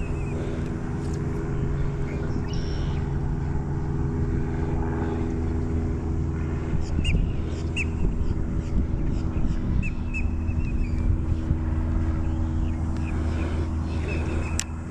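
A steady mechanical hum holding one pitch, like a motor or engine running, with short high chirps scattered over it.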